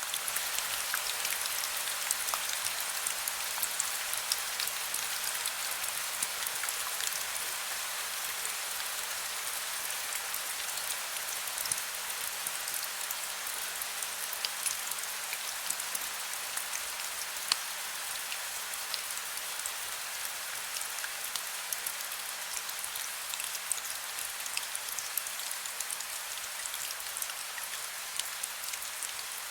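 Heavy rain falling steadily: a dense, even hiss full of small ticks of individual drops.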